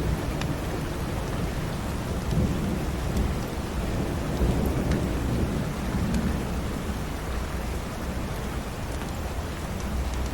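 Steady rain with a low rumble of thunder swelling and fading through the middle, and a few faint crackles from a fireplace.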